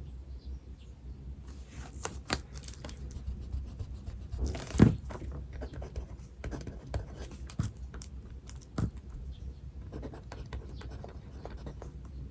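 Pen-and-paper desk sounds: scratching and paper rustling with many small clicks, and a louder thump about five seconds in and a smaller one near the end.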